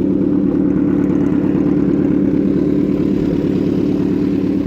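Kawasaki Z1000's inline-four engine idling steadily through an Arrow full-system aftermarket exhaust, a loud, even exhaust note.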